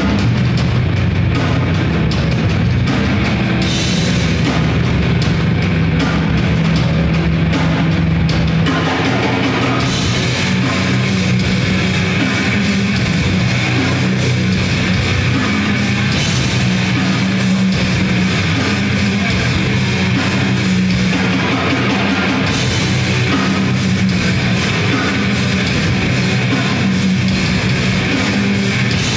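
Live grindcore band playing loud, distorted guitars and bass over drums. The sound changes about nine seconds in, with the low notes shifting and the cymbals and drums thickening.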